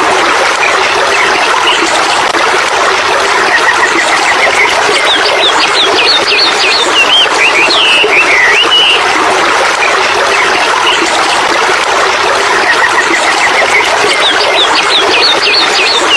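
Birds singing: chirps, short trills and swooping calls, with the same phrases coming back about every nine seconds, over a loud, steady hiss.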